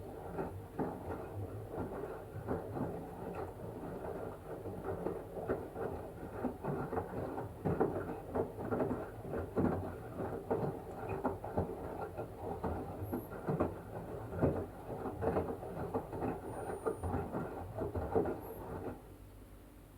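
LG washing machine drum turning in the wash phase, the wet blanket tumbling and water sloshing with an irregular patter of splashes over a low motor hum. The tumbling stops suddenly about a second before the end.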